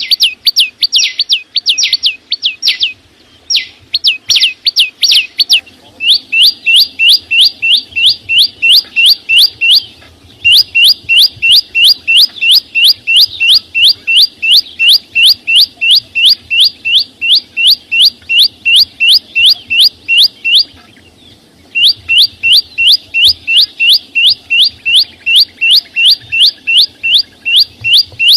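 Chim sâu xanh, a small songbird, calling in long runs of quick, sharp, downward-sweeping chips, about four a second. Each run is broken by a brief pause.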